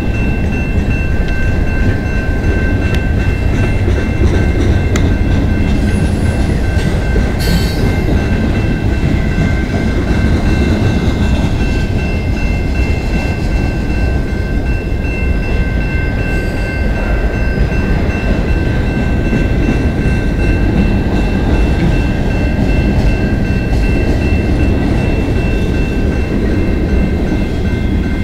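Freight cars of a passing freight train rolling by at a level crossing, their wheels rumbling steadily on the rails. A steady high ringing from the crossing's warning bell runs on over it the whole time, and there is one brief clank about seven seconds in.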